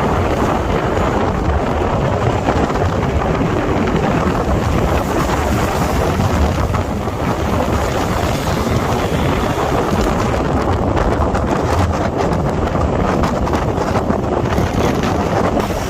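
Wind buffeting the microphone over the steady rumble and road noise of a moving car.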